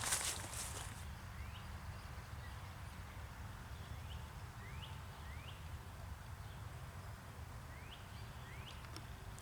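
Faint single rising peeps of spring peeper frogs calling from the swamp, one every second or so at irregular intervals, over a low steady outdoor background. A footstep crunch sounds right at the start.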